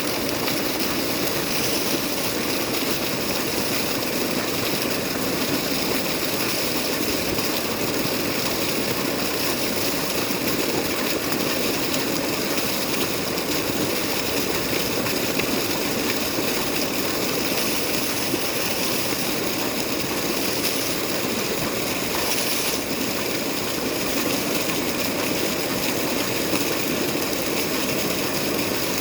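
An engine running steadily without change.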